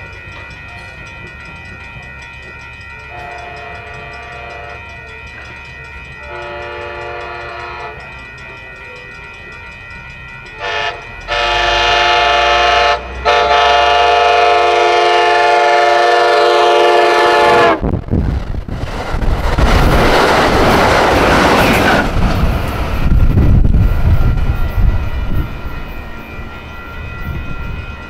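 A train approaches sounding its multi-chime air horn in the grade-crossing pattern: long, long, short, then a drawn-out long blast. The horn cuts off as the train passes at speed with a loud wheel-and-rail rush that fades toward the end.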